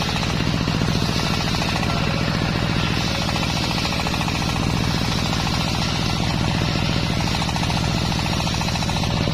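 Homemade engine-driven circular sawmill running steadily, the engine giving rapid, even pulses under a higher whine from the saw.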